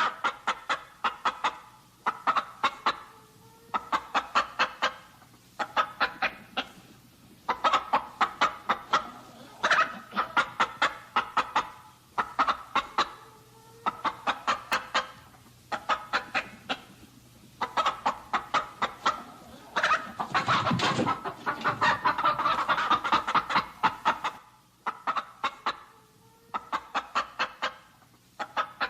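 Chickens clucking in repeated quick runs of short, sharp clucks, with a louder, denser stretch about twenty seconds in.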